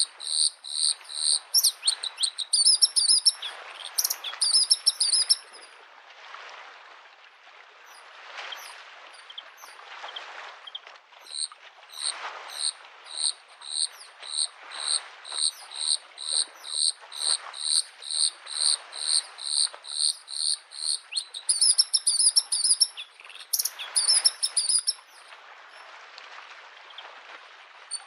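Bluethroat singing long series of high, clipped notes repeated two or three times a second, broken by short trilled phrases, with a pause of several seconds between the series. Small lake waves lap the shore in slow swells underneath.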